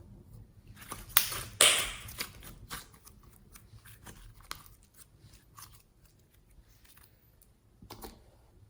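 Close-up clicks and crackles of slime and mixing materials being handled, with two loud crackling crunches a little over a second in, then scattered soft clicks and a short crackle near the end.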